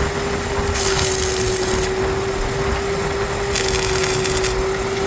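An engine running steadily with an even hum, broken twice by a harsh hissing burst about a second long, once near the start and once past the middle.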